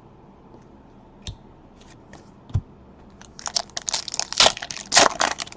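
Two light taps, then a trading card pack's wrapper being torn open and crinkled for about two seconds near the end.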